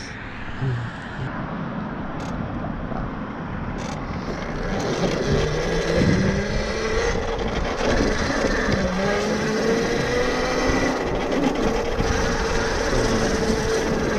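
Tuttio Soleil 01 electric dirt bike's motor whining, its pitch rising as the bike pulls away about four seconds in and then holding steady at cruising speed. A rushing noise builds along with the speed.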